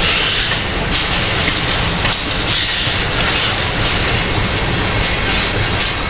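Slow Canadian Pacific freight train of covered hopper cars rolling past, its steel wheels clicking and rumbling steadily on the rails.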